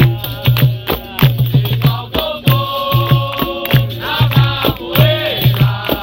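Capoeira roda music: a steady beat of drum strokes and sharp percussion strikes with a rattle, under group singing in a chant-like style.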